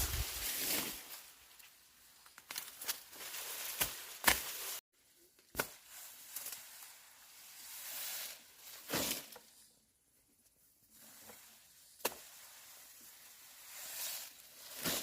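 Rustling and shuffling handling noise that swells and fades, with a few sharp knocks.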